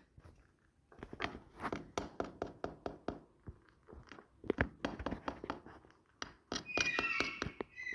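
Indian ringneck parrot crunching and biting with its beak, a run of sharp irregular cracks, followed near the end by a short call.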